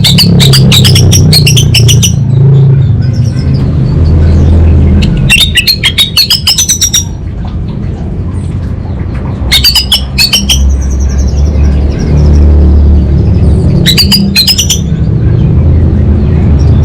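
Orange-headed thrush singing in four bursts of rapid rattling, rising notes, with pauses between, over a loud steady low hum.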